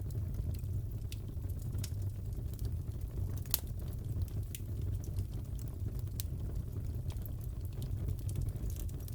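Fireplace crackling: a steady low rumble from the burning fire with scattered snaps and pops, the sharpest about three and a half seconds in.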